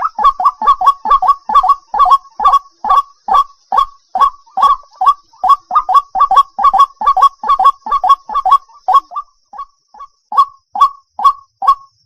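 White-breasted waterhen (chim quốc) calling: a fast, even run of short notes, about three a second, each falling in pitch. The run thins and weakens about nine seconds in, then picks up again.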